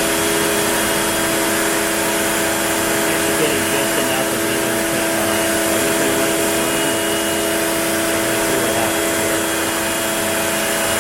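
OneFinity CNC router running steadily as it cuts through a wooden board on a final single clean-up pass. It is a continuous machine hum with a few steady tones over an even hiss, with no pauses.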